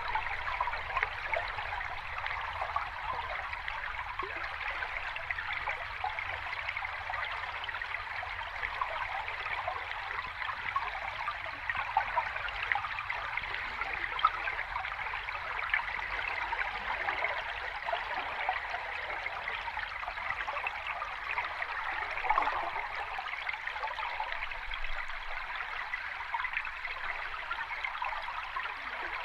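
Sea water washing steadily, an even, continuous wash with no separate wave surges.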